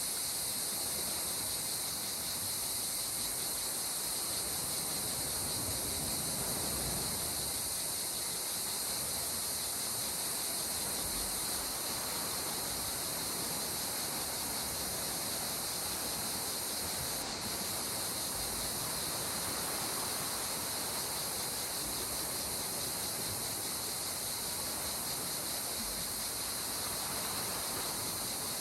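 Calm sea water washing gently on the shore in soft, slow swells, under a steady high-pitched chorus of crickets or similar insects.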